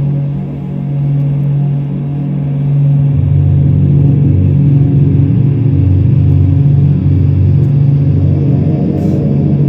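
Sustained low musical drone: steady deep tones with overtones, a lower note joining about three seconds in and holding.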